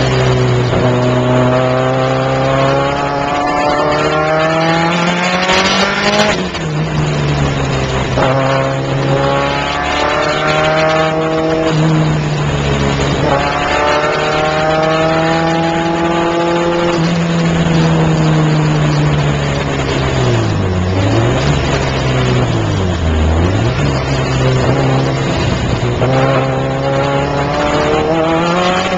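Car engine heard from inside the cabin, driven hard: the revs climb for several seconds and drop sharply at each upshift, about three times, then two quick dips and recoveries a little past the middle before climbing again near the end.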